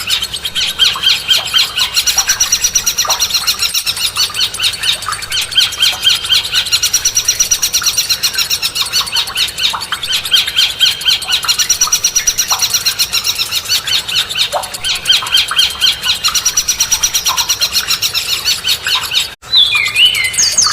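A songbird singing fast, rapidly repeated high chirping trills in phrases of a couple of seconds each, the kind of song used as 'masteran' material for training cage birds. Near the end the song breaks off briefly and a few different falling notes follow.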